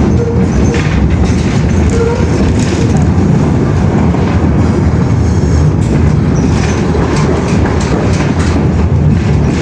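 A moving vehicle runs with a loud, steady low rumble, with many rapid clicks and rattles through it.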